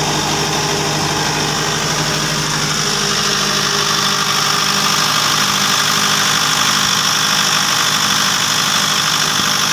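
Cummins 4BT four-cylinder diesel engine running steadily after its fuel pump has been fitted, getting slightly louder and higher-pitched about three seconds in.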